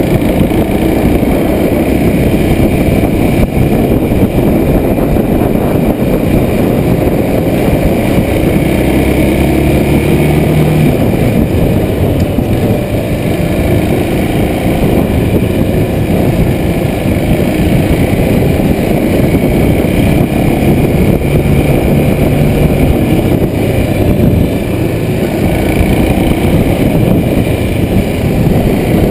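Kawasaki Super Sherpa's 250 cc single-cylinder engine running under way on an uphill climb, heard through heavy wind rumble on a chest-mounted camera. The engine note shifts a couple of times with throttle or gear changes.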